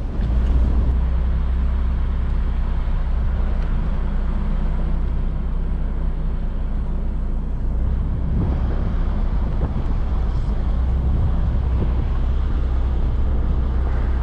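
Nissan Pathfinder driving along a forest road, heard from inside the cabin: a steady low engine hum over road and tyre noise.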